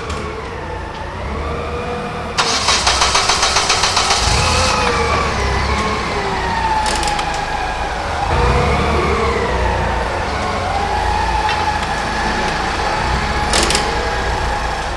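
Sirens wailing, several slowly rising and falling tones overlapping. About two seconds in, a loud rapid clatter of about ten pulses a second lasts a little over two seconds.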